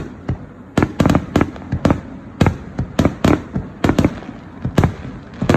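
Fireworks going off: a quick, irregular run of about twenty sharp bangs, a few each second.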